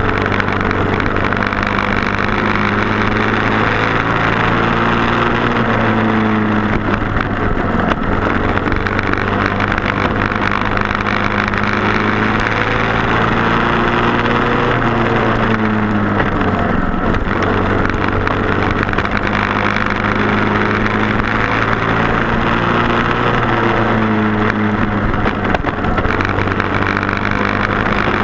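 Racing kart's Briggs & Stratton Animal single-cylinder four-stroke engine running hard, its pitch rising and falling every few seconds as it revs up and eases off, over a steady low drone.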